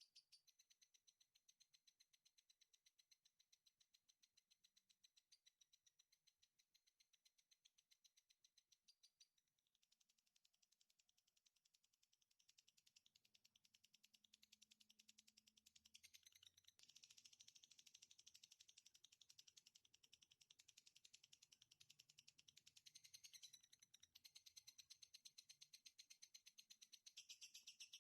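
A faint songbird chirping: an even, fast run of short high chirps, about five a second, growing somewhat louder partway through.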